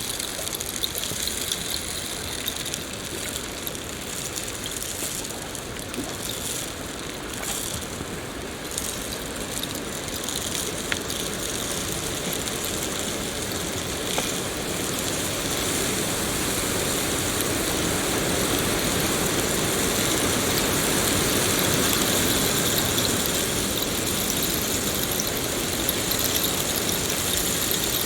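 Steady rain: an even hiss of falling drops with fine patter, growing a little louder about halfway through.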